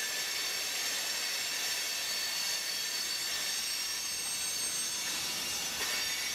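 Freight train of covered hopper cars rolling slowly past: a steady hiss of steel wheels on rail, with faint thin high-pitched tones of wheel squeal.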